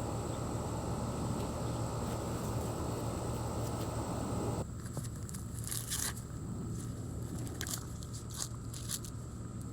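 Ears of sweet corn being husked by hand: several short, crackling rips as the husk leaves are torn back, in the second half. They sit over a steady background rumble that drops away suddenly about halfway through.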